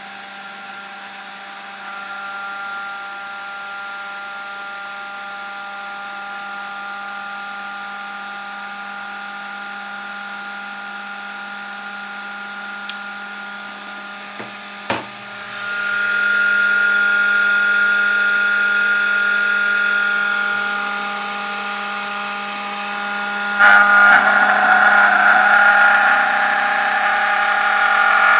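Rotor of a home-built generator on magnetic levitation bearings spinning at very high speed, around 12,000 rpm, giving a steady high whine with several fixed tones. A single sharp click comes about halfway through, after which the whine gets louder, and near the end it jumps suddenly to a louder, rougher sound.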